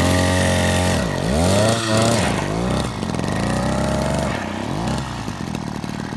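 Small motorbike engine revved again and again, its pitch rising and falling several times, then dropping back to a steady idle about five seconds in.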